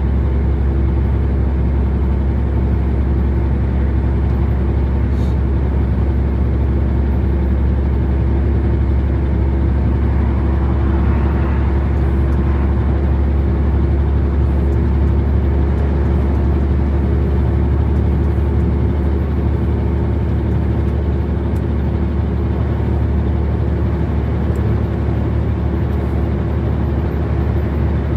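Truck engine and road noise at steady cruising speed, a constant deep rumble with a steady hum above it.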